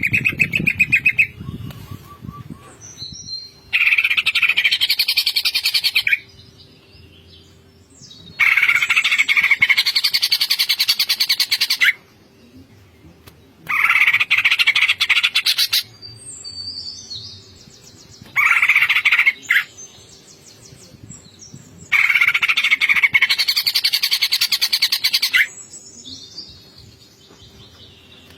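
A cucak ijo (green leafbird) singing in loud, rapid bursts of varied, chattering song, each a second to a few seconds long, with softer twittering between them. It is singing 'gacor', in full, frequent song packed with varied phrases.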